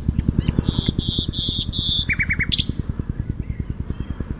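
Nightingale singing: a long high whistled note, then a quick four-note trill and an upward flourish. Under it a Chinook helicopter's rotors beat in a rapid, even thudding throughout.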